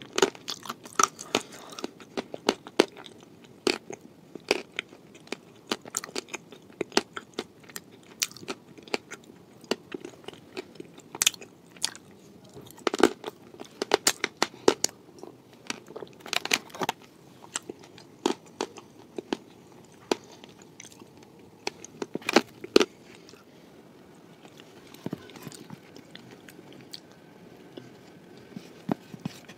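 Close-miked chewing of a shortbread cookie spread with blue clay paste: frequent sharp, crisp crunches with softer, wetter chewing between them. The crunches grow sparse in the last few seconds.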